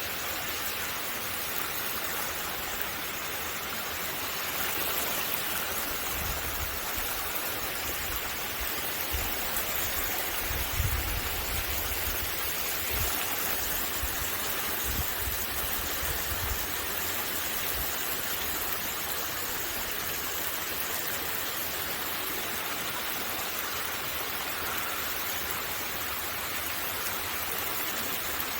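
Heavy rain pouring down steadily in a summer downpour, an even hiss of falling water, with a few bursts of low rumble partway through.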